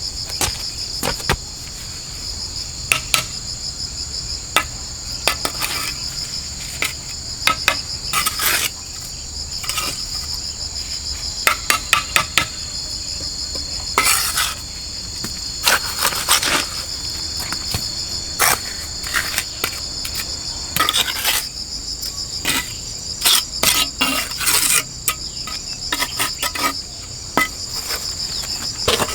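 Steady, shrill chorus of insects singing throughout, with irregular sharp knocks and clatters of work on top of it.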